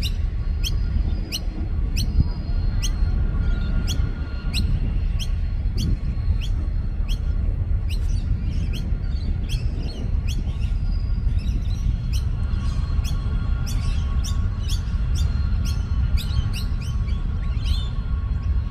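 Small birds chirping: a sharp chirp repeated about three times every two seconds, with more irregular, overlapping chirps in the later part, over a steady low rumble.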